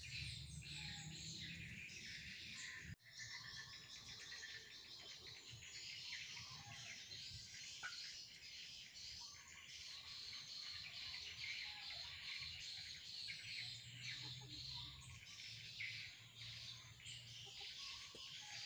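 Small birds chirping and twittering, faint and continuous, many short calls overlapping; the sound cuts out for an instant about three seconds in.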